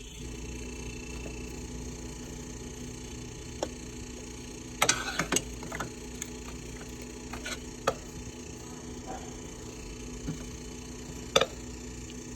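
Whirlpool refrigerator compressor running with a steady hum, broken by irregular sharp knocks, a cluster of them about five seconds in; the compressor is noisy, a sign of a compressor at fault.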